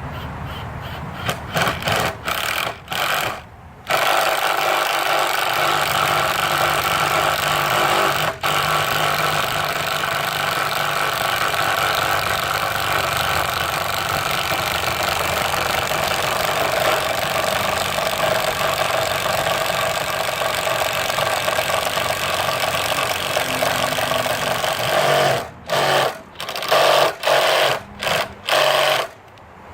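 Ryobi P234G 18-volt cordless impact driver hammering as it bores with a 1-inch spade bit. It gives a few short trigger bursts, then runs continuously for about twenty seconds, then a few short bursts again near the end.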